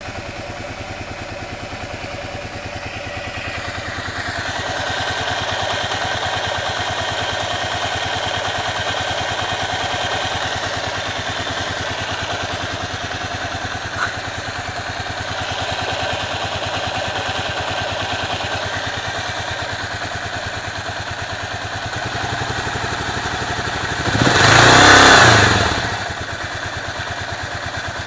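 Kawasaki KLR650's single-cylinder engine running steadily with an even pulse, with a clattery noise its owner finds odd. A single sharp click comes about halfway, and a loud rushing swell lasts about two seconds near the end.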